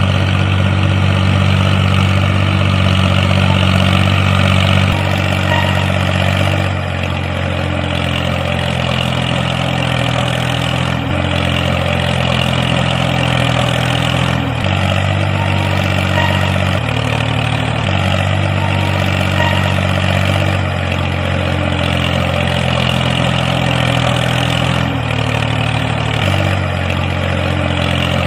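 Tractor engine running steadily at idle, its low hum shifting abruptly between a few steady pitches every few seconds.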